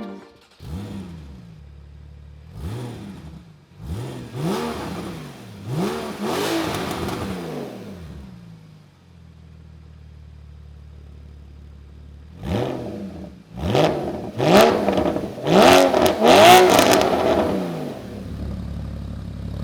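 Porsche 981 Cayman S 3.4-litre flat-six through a full Armytrix valvetronic exhaust, revved in a string of quick throttle blips that each rise and fall in pitch. It settles to a steady idle for a few seconds in the middle, then blips again, with a louder second burst near the end.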